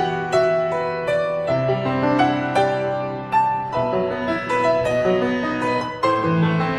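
Solo piano music playing a slow melody over held chords, each note struck and then fading.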